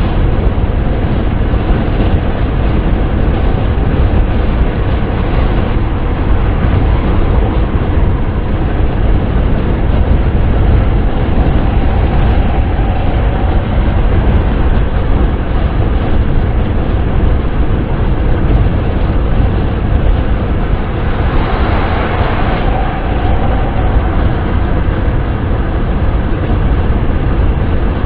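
Steady wind and road noise of a car driving, a constant low rumble with hiss above it. The hiss swells briefly about 21 seconds in.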